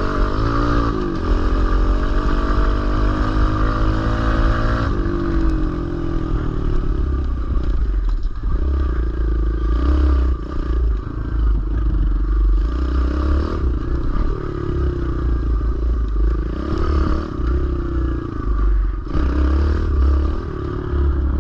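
Kawasaki KLX110L pit bike's small single-cylinder four-stroke engine revving as it is ridden: the pitch climbs over the first few seconds, drops sharply about five seconds in, then rises and falls with the throttle.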